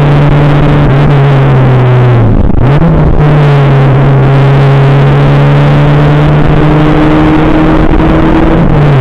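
Škoda Felicia rally car's 1.3-litre four-cylinder engine running hard, heard from inside the cabin. About two and a half seconds in the revs dip briefly and pick up again, then climb slowly until they fall away near the end.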